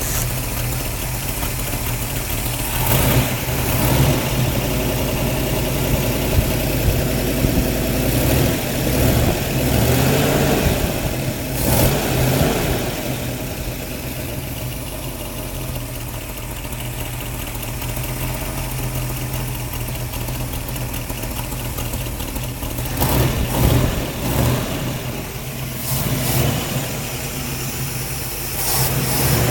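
Car engine idling steadily and revved up and back down a few times, with a leaking exhaust that the owner takes for gases escaping at the flange seal where the manifold meets the pipe.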